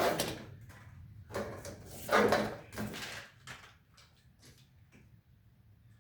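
A handful of knocks and clunks of hard parts being handled and set down, several in the first half, the loudest about two seconds in, then fainter ones.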